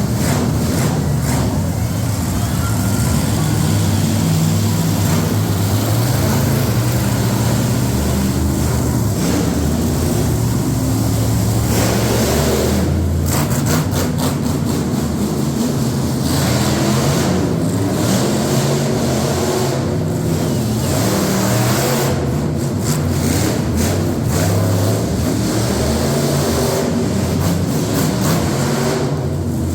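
Monster truck engine running loudly and being revved, its pitch rising and falling again and again.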